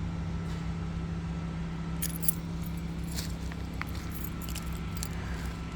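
A steady low motor hum with a held drone, under scattered light clicks and jingles; one sharper click a little over two seconds in.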